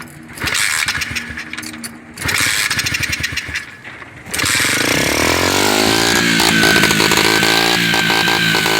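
A 50cc Chinese pit bike engine firing in two short, ragged bursts. About four seconds in it catches and revs up to a steady high run. The owner believes its piston rings are worn.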